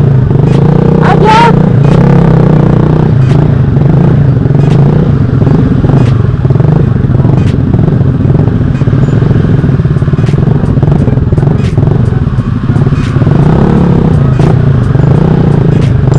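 Motorcycle engine with a loud aftermarket exhaust running steadily, its pitch rising and falling a little, with many sharp ticks over it.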